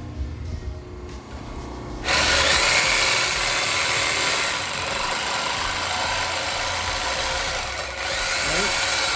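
A power tool cutting a steel exhaust pipe that will become the straight pipe replacing the muffler. It starts suddenly about two seconds in as a loud, steady, hissing noise and runs on, dropping briefly near the end.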